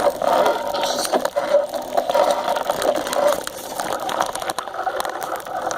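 Bicycle rattling and scraping as it is ridden, with small knocks and clicks throughout.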